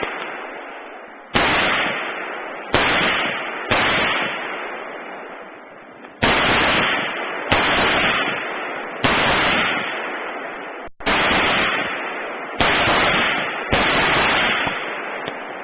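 A series of about nine loud, sudden gunshot-like bangs at irregular intervals, each fading slowly over a second or more.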